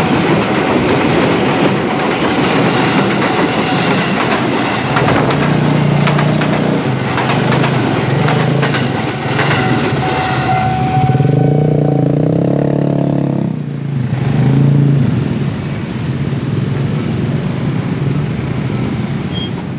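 A JR 205-series electric commuter train and then a second commuter train passing close by at a level crossing: a steady rumble with the clatter of wheels over rail joints. About eleven seconds in the rumble drops and a steady droning tone sounds for a couple of seconds.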